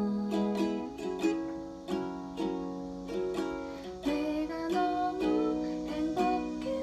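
Ukulele played solo, plucked notes and chords ringing and decaying in a steady rhythm.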